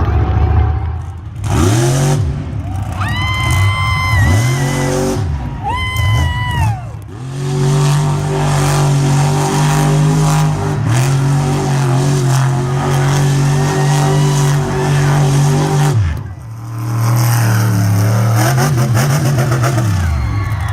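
Monster truck engine revving hard in quick blips, with a high whine rising and falling with two of them. It is then held at steady high revs for about eight seconds, drops briefly, and revs back up near the end.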